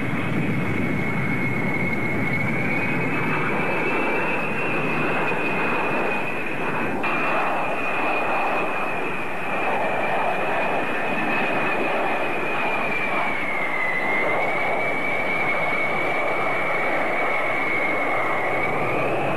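Aircraft engine running, a steady rush of noise with a high whine that drifts slowly up and down in pitch. There is one sharp click about seven seconds in.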